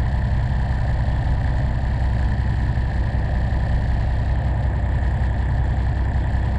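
Semi truck's diesel engine running steadily.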